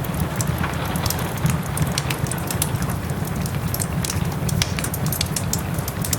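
Wood fire in a fireplace crackling with frequent sharp pops and snaps, over a steady hiss of soft rain and a low rumble.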